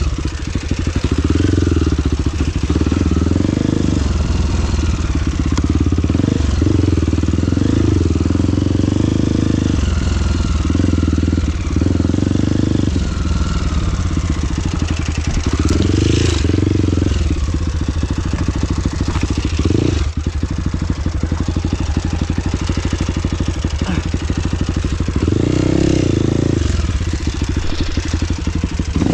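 Trail motorcycle engine running under changing throttle, the engine note swelling and easing off several times as the bike is ridden.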